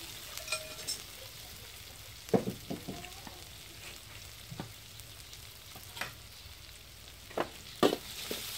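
Pounded chilli and garlic frying in an aluminium wok, a low steady sizzle with scattered sharp clicks and taps. Near the end a metal spoon stirs and scrapes through it.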